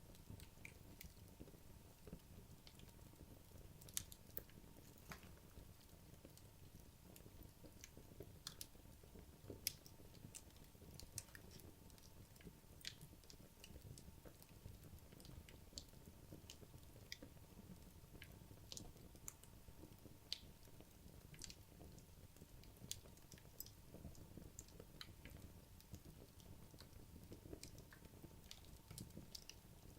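Wood logs burning in a fireplace: faint, irregular crackles and pops over a low rush of flame, with two sharper pops about four and ten seconds in.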